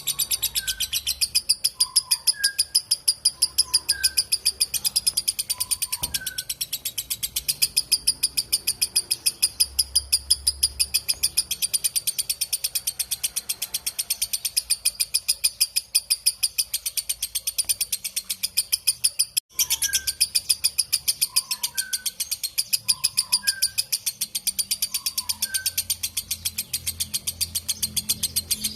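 Lovebird giving its long, rapid high-pitched chattering trill (ngekek), an unbroken run of quick repeated notes. Fainter, lower chirps come in small groups near the start and again after a brief break about two-thirds in.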